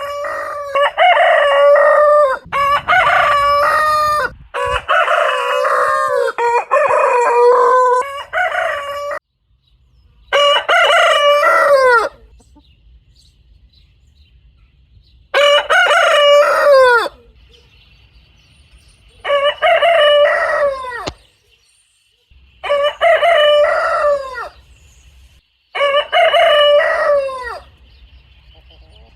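Roosters crowing over and over, each crow lasting about a second and a half. In the first nine seconds the crows follow one another closely, then single crows come about every three to four seconds.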